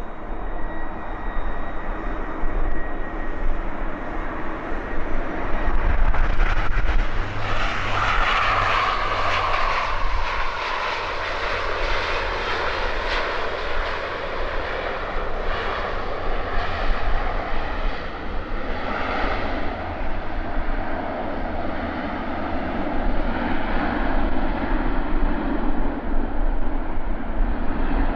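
Jet airliner's engines passing close, a steady deep rumble with a whine that falls in pitch about eight to twelve seconds in, then eases off.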